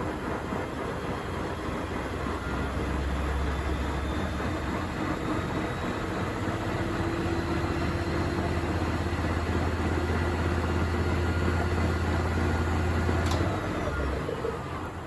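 Beko washing machine's drum motor running a spin: a steady low hum with a faint whine that slowly rises. About 13 seconds in it cuts out with a click and winds down, the way the spin aborts when excess suds build up (suds lock).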